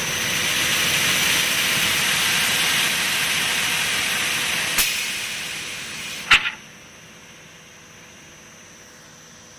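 Baluster sanding machine running with a loud steady hiss. The hiss fades, a sharp knock comes about six seconds in, and after it only a much quieter steady machine hum is left.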